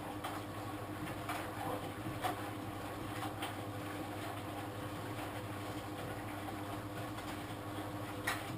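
Old washing machine's motor running and turning the drum, a steady hum with a few knocks and clicks. Near the end it cuts off with a louder click.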